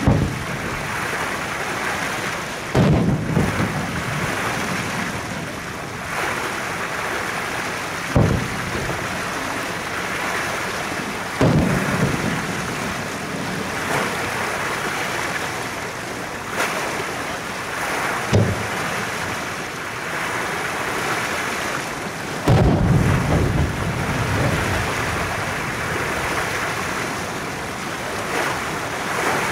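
Aerial firework shells bursting: about six deep booms a few seconds apart, some in quick clusters, each trailing off in a rumble over a steady background rush.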